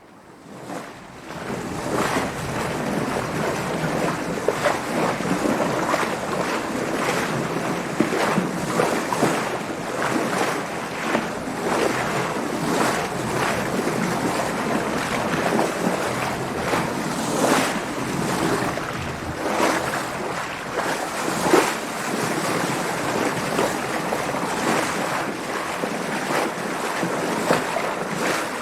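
Sea water splashing and sloshing against a sailing boat, with irregular surges of spray and a steady rush of wind. The sound fades in over the first second or two.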